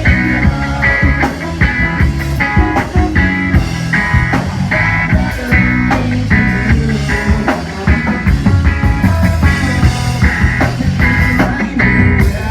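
Rock band playing an instrumental passage: guitar chords struck in short stabs about twice a second over bass and drums, with no singing.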